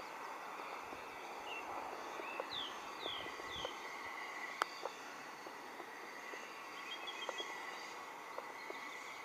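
Quiet outdoor ambience with a steady background hiss. A bird gives a short run of quick descending chirps about two and a half seconds in, and there is a single sharp click about halfway through.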